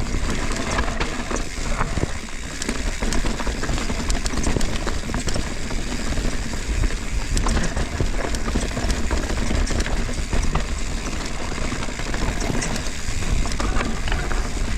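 Mountain bike rolling over a rocky trail: continuous tyre and wind rumble with many small clicks and rattles from the bike.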